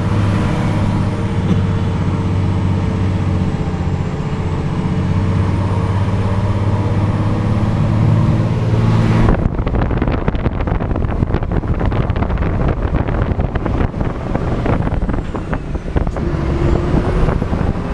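Scania R420 truck's six-cylinder diesel engine running at a steady pitch. About halfway through, the even note breaks off abruptly into a rougher, noisier sound.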